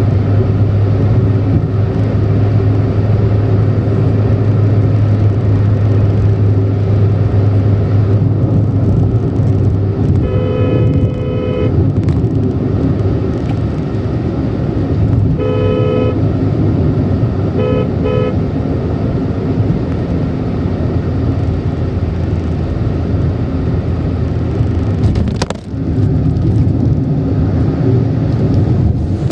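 Car driving at speed, its engine and road noise running steadily with a deep hum. A car horn honks over it: one long honk about ten seconds in, another about five seconds later, then two short toots.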